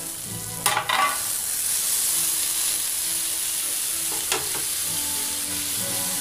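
Oil sizzling in a steel kadai of frying onions as chopped tomatoes are tipped in with a clatter about a second in, followed by steady sizzling and stirring with a short knock of the spoon on the pan about four seconds in.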